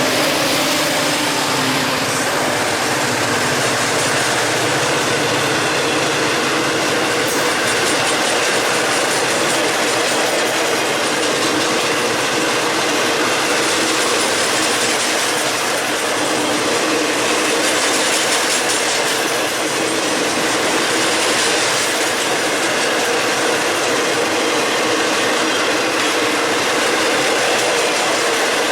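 Freight train cars rolling past at close range: a steady loud rumble of steel wheels on rail with rattling, clattering car noise.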